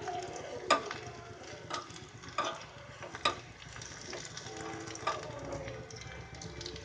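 Chopped onions, garlic and dried chillies sizzling in hot oil in a small tadka pan while a spatula stirs them, with a few sharp clicks of the spatula against the pan. This is a tempering for dal being fried until the onions turn brown.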